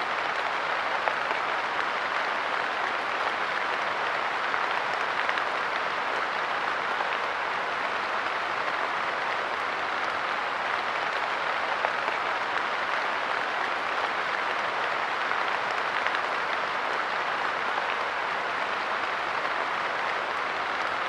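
Steady light rain falling on a park bench, with many small drop ticks over an even hiss.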